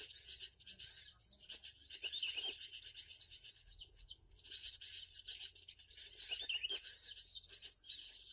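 Recorded bird song played through a speaker as a trapping lure: dense, rapid chirps and trills, with a short break about halfway through.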